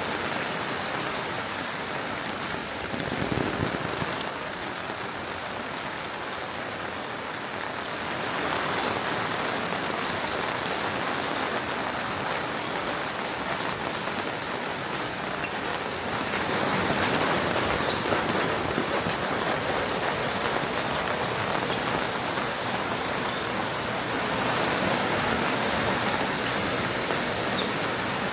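Steady rain falling and pattering on surfaces, louder in a few stretches.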